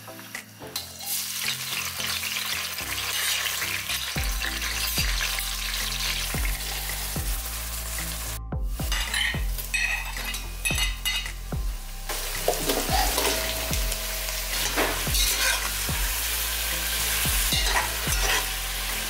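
Chopped onion, carrot, tomato and potato sizzling as they fry in hot oil in a pot, with a spoon stirring and clicking against the pot. The sizzle starts about a second in and drops out briefly near the middle.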